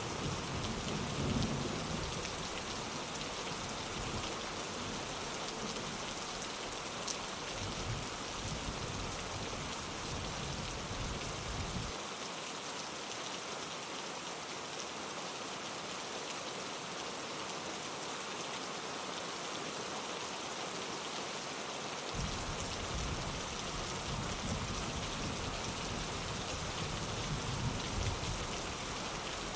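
Steady rain pattering on a window, with low rumbles of distant thunder through the first part that stop abruptly about halfway and return near the end.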